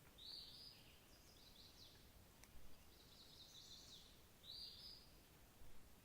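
Birds singing faintly: several short, high song phrases, some with quick trilled notes, come a second or two apart against a quiet background hiss.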